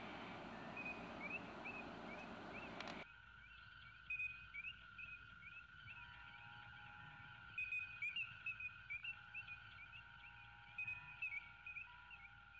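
Faint bird chirps, short rising calls in irregular clusters, over a steady hiss that cuts off about three seconds in.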